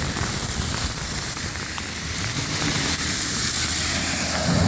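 Heavy rain falling with a steady hiss, over a low vehicle rumble that swells near the end.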